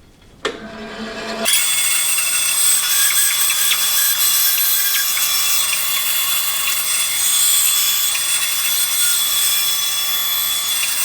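A power saw starts up and then cuts a small oak patch piece to a rough outline, with a steady high hiss of cutting from about a second and a half in.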